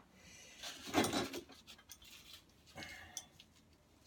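Light clinks and scrapes of metal tools and parts being handled, the loudest about a second in and another near three seconds.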